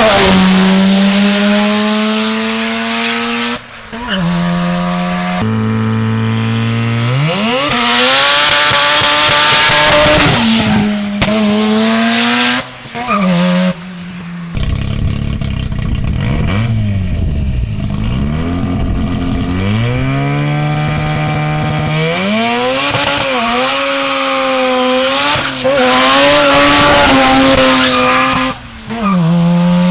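Straight-piped, turbocharged Mazda RX-7 FD rotary engine revving hard, its pitch climbing and falling over and over. It cuts off sharply a few times as the throttle closes, and through the middle it sinks lower and wavers up and down.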